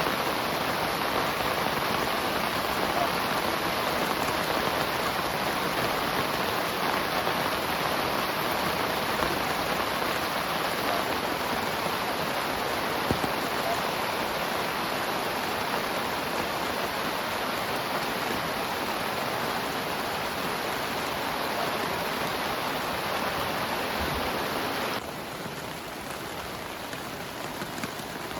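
Heavy rain pouring down steadily as a dense, even hiss. About 25 seconds in it drops suddenly to a quieter, duller rain.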